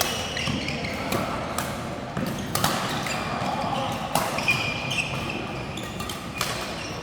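Irregular sharp knocks, about half a dozen spread through the stretch, with short high squeaks between them over a steady background murmur.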